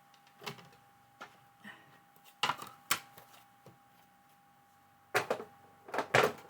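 Scattered knocks and clicks of craft tools, dies and plates being handled and set down on a worktable, the loudest about two and a half, five and six seconds in, over a faint steady hum.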